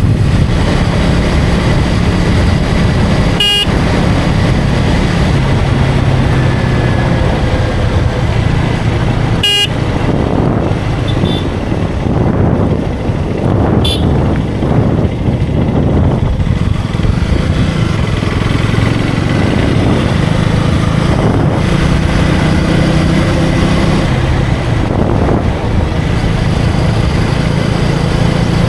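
KTM Duke 250's single-cylinder engine running steadily at cruising speed, with wind rushing over the helmet microphone and tyre noise. Three short horn beeps cut through about 3, 10 and 14 seconds in.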